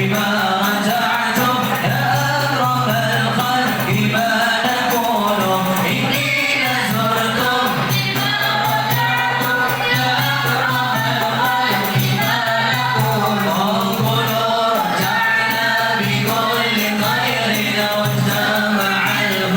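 A group of voices singing a devotional qasidah together, with a steady beat of hand percussion.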